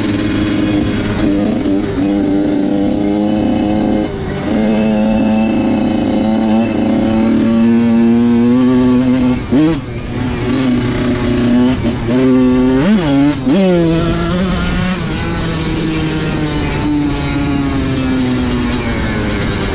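Dirt bike engine running under throttle, its pitch climbing and dropping with brief breaks as it shifts gears, then falling slowly near the end.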